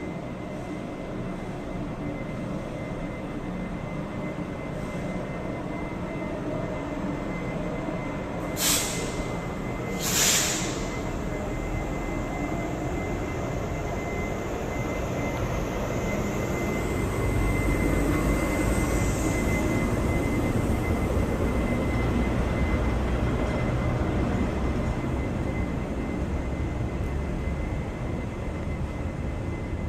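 Train running on rails with a steady rumble, with two short sharp hisses of air about nine and ten seconds in. The rumble grows louder from about halfway through.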